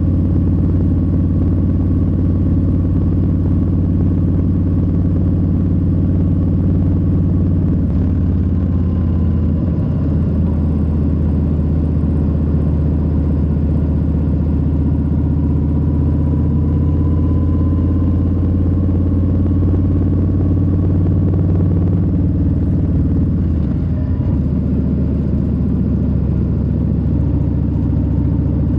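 Harley-Davidson Low Rider S's Milwaukee-Eight 117 V-twin running steadily under way at cruising speed. The engine note shifts about eight to ten seconds in and again near the end, as the throttle changes.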